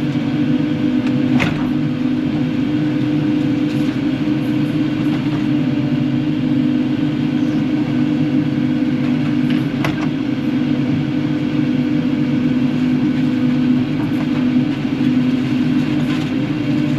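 Kubota KX080-4 excavator's diesel engine running steadily under work, with two sharp knocks, one about a second and a half in and one about ten seconds in.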